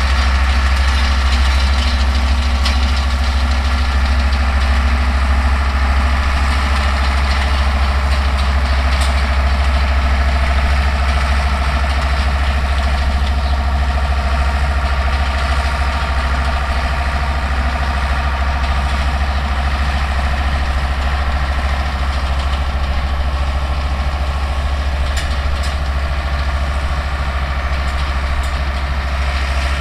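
Older Deutz tractor's diesel engine running steadily with a deep, even hum while it pulls and drives a New Holland round baler, fading slightly towards the end.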